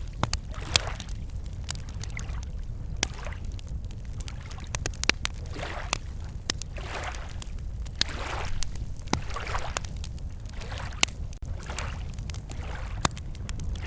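Wood campfire crackling, with frequent sharp pops, over small lake waves lapping at the shore in soft swells about once a second. A steady low rumble runs underneath.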